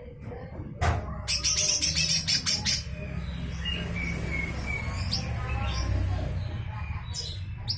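Cucak hijau mini (lesser green leafbird) giving its harsh, rasping 'besetan' song: about a second in, a fast run of raspy strokes lasting about a second and a half, then a few short whistled notes and sharp high chirps. A steady low hum runs underneath.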